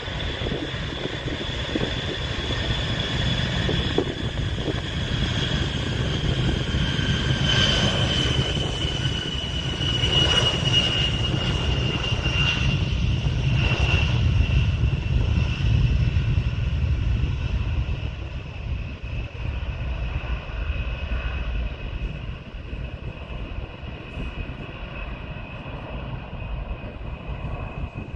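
Engines of a departing fixed-wing airplane: a steady rumble under a high whine that falls slowly in pitch, loudest near the middle and fading after about eighteen seconds.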